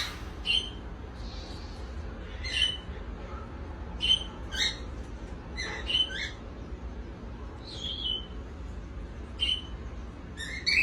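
Cockatiels giving short chirps and squeaks every second or so, over a faint low hum.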